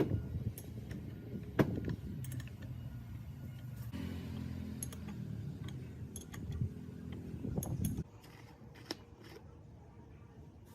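Metal clinks and knocks, as of parts being handled, over a low rumble that stops about eight seconds in.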